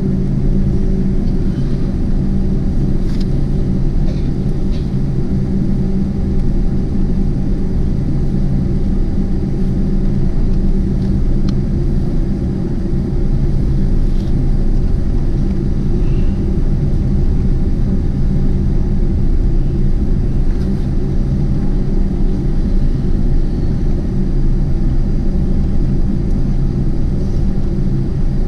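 Steady low rumble and hum of the cabin inside a Boeing 747-8 on the ground after landing, with a few faint ticks.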